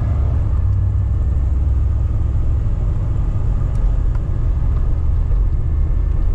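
Steady low rumble of a 1989 Chevy G20 van's engine and road noise, heard from inside the cab while driving.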